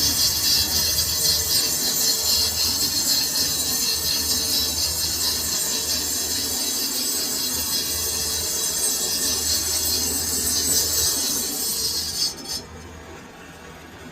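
Steel being cut on a lathe: a steady high metallic hiss and screech from the cutting tool over the lathe's lower running hum. The cutting noise stops suddenly near the end while the machine keeps running more quietly.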